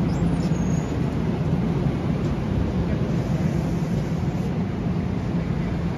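Long Island Rail Road M7 electric multiple-unit train running past the platform: a steady rumble of wheels and traction motors with a low hum, and a brief faint high squeal about half a second in.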